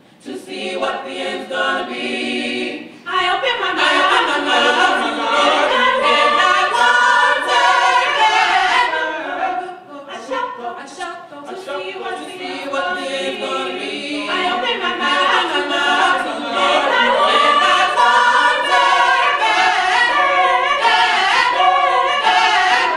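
Gospel choir singing, softer for the first three seconds and then swelling to full voice; it eases back about ten seconds in and builds again.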